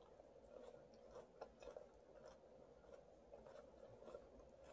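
Faint chewing of raw salad leaves: a few soft, crisp crunches at irregular moments over quiet room tone.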